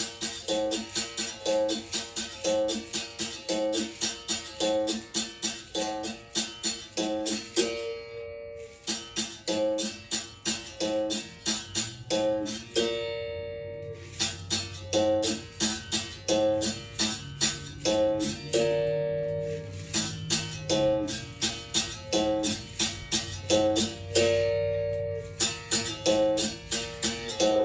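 Berimbau played solo: its steel wire is struck in a quick, steady pattern of about three to four notes a second, switching between two pitches. Every few seconds the pattern pauses on a single longer-ringing note.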